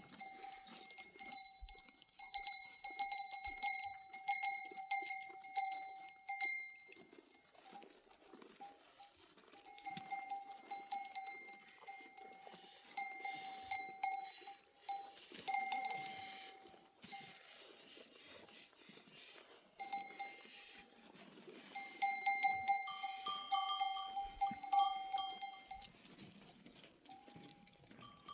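Goat bells clanking in irregular bursts with short lulls as the animals move, one bell ringing a clear, steady note. In the last few seconds a second, higher-pitched bell joins in.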